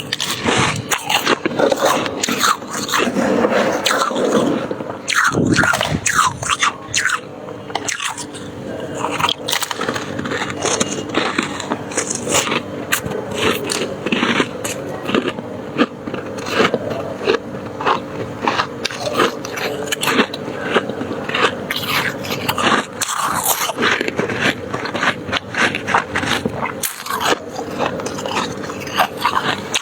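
Freezer frost being bitten and chewed close to the microphone: a steady run of crisp crunches.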